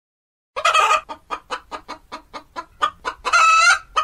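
Domestic hens clucking in a quick run of short clucks, about four a second, starting about half a second in. Two longer, louder calls stand out, one at the start of the run and one near the end.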